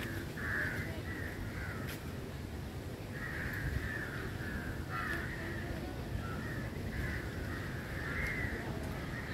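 Birds giving harsh, cawing calls one after another, over a low background rumble.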